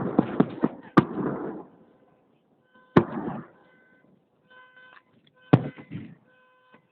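Fireworks salute shells bursting: three sharp bangs about two seconds apart, each followed by a crackling rumble. Between the bangs a car alarm beeps in short pulses of a steady high tone.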